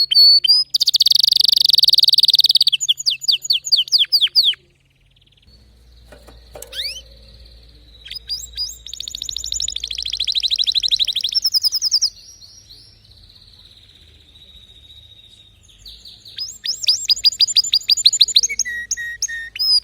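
Domestic canary singing: rapid repeated phrases and fast high trills, with a short pause about five seconds in, softer drawn-out notes in the middle, and a quick run of falling notes near the end.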